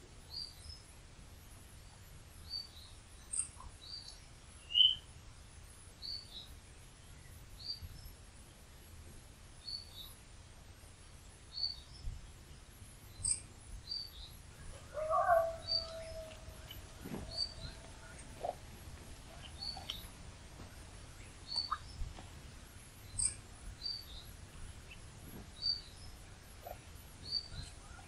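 A bird calling over and over at dusk, a short high chirp about once every second or so, with one brighter chirp a few seconds in. About halfway through comes a brief, lower, drawn-out sound.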